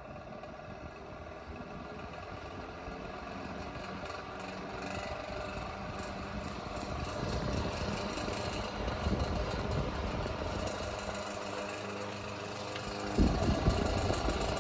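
Vintage 1950s–60s Montgomery Ward 8-inch single-speed table fan running and coming up to speed, its motor hum growing louder. Near the end, at full speed, it begins to rattle.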